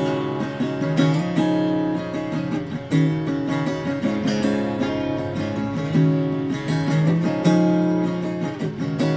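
Acoustic guitar strumming chords, with the chords changing every second or two and no singing over it.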